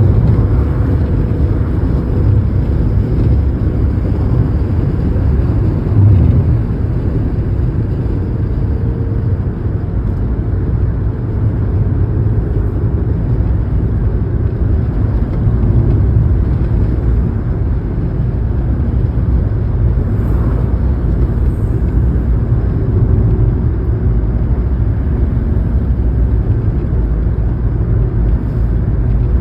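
Steady low rumble of a car driving along a highway, engine and tyre noise with no sharp events.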